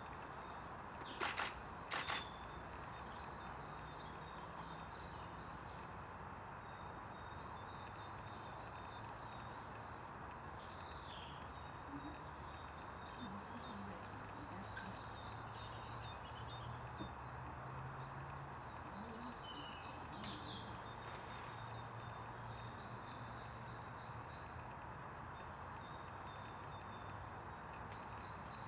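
Wild birds chirping faintly and intermittently over a steady background hiss, with two sharp knocks a little over a second in and again about two seconds in.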